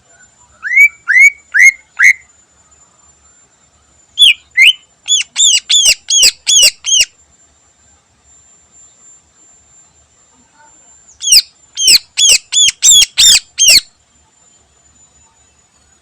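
Greater green leafbird (cucak ijo) singing: three loud bouts of sharp arched notes repeated about three a second, the first of four notes, then two longer runs of eight or nine.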